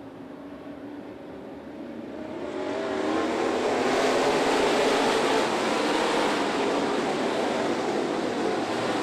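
Dirt late model race cars' V8 engines growing louder over a couple of seconds as the pack comes toward the microphone, then a steady loud drone of several engines running together.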